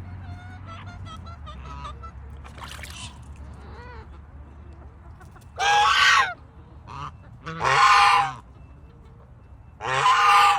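Poultry calling: three loud, harsh pitched calls, each under a second and about two seconds apart, beginning about halfway through, after a few faint softer calls.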